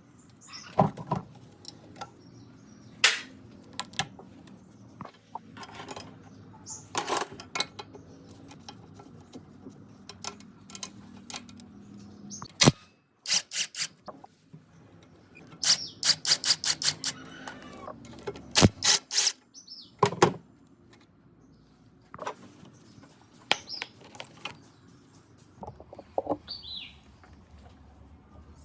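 Hand-tool work on a generator's metal parts: scattered sharp clicks and knocks, with a quick run of about a dozen taps around the middle.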